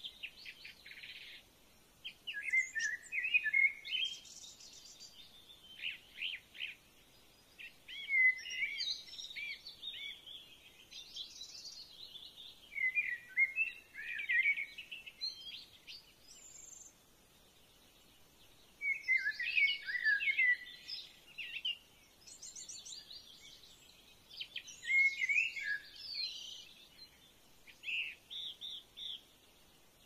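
Songbirds singing: short bursts of quick, high, fluttering phrases, each a second or two long, coming every few seconds with quieter gaps between.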